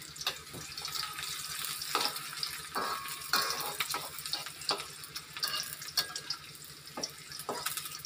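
Onions sizzling in hot cooking oil in a steel wok, a steady hiss, with a metal spatula scraping and tapping against the pan at irregular intervals.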